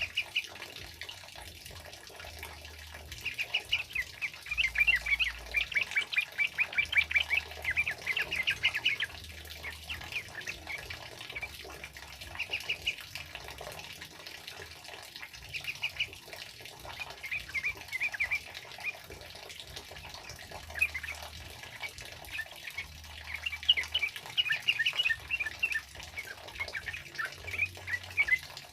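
Yellow-vented bulbul (trucukan) giving its fast, chattering ropelan song in repeated bursts, loudest in the first third and again near the end, with a steady hiss of rain behind.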